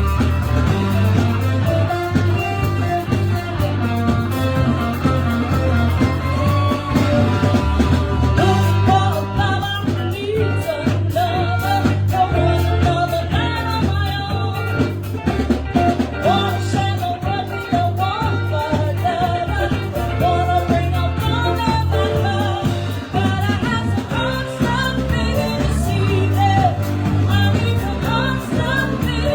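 Live band playing a rock song, with singing, guitar and a steady bass line.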